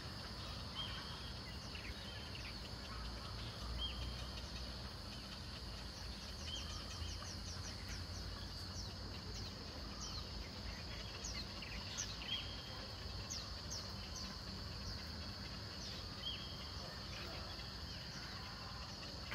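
Birds chirping: many short, high calls scattered through, busiest in the middle, over a steady high drone and a low background rumble.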